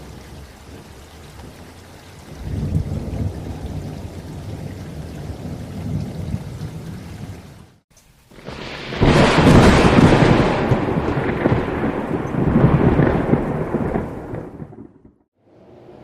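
Thunderstorm: rain falling steadily with a low thunder rumble building from about two seconds in. After a brief drop-out near the middle, a loud thunderclap rumbles for about five seconds, then the sound cuts off suddenly.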